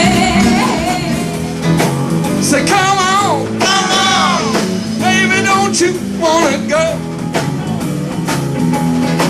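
Live blues band playing a shuffle, with a voice singing over electric guitar and bass.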